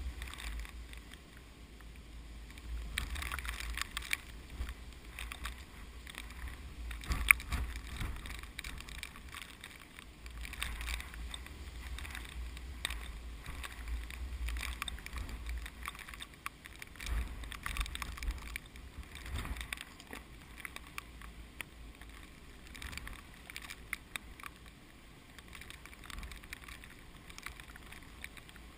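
Strong typhoon wind gusting in waves, buffeting the microphone with a low rumble and rustling through the rice plants. A single sharp click about seven seconds in stands out as the loudest sound.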